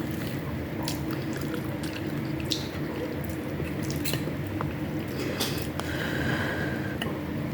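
Wet chewing and small mouth clicks of someone eating, over a steady low hum.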